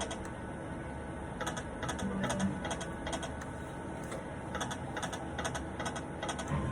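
Slot machine making a quick run of light mechanical ticks, as its reels spin, over a steady low background hum.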